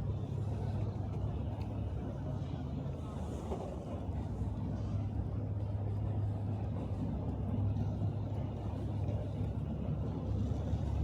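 Steady low drone of a large engine running, over a constant rumble of city noise.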